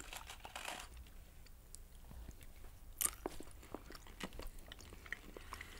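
Faint chewing of a jelly bean: a scatter of small mouth clicks, the sharpest about three seconds in.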